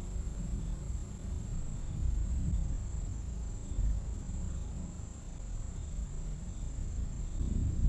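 Thunder rumbling low and almost without a break, swelling and fading, with a steady high insect trill over it.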